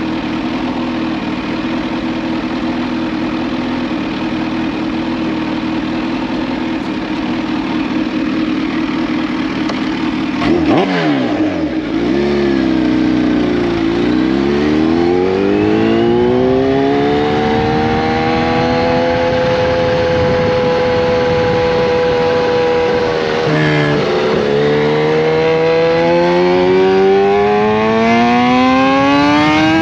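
Kawasaki Z H2's supercharged inline-four running through an SC Project CRT exhaust while ridden, heard onboard. The engine note holds steady for about ten seconds, then drops sharply with a quick blip. It then pulls up through the revs, dips briefly at a gear change, and climbs again near the end.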